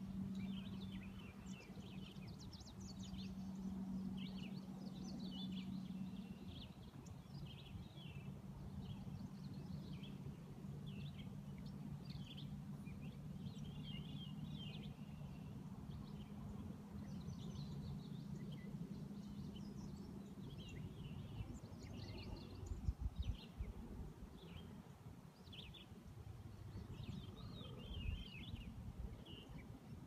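Small songbirds chirping and twittering at a pond's edge, with a low steady hum under them for the first two-thirds and a couple of low gusts of light wind near the end.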